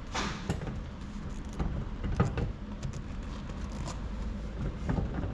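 Stacked plastic traffic cones being fitted over a welded steel cone spike and worked off again: scraping and a series of knocks and clatters, the loudest knock about two seconds in. The fit is a fraction too tight.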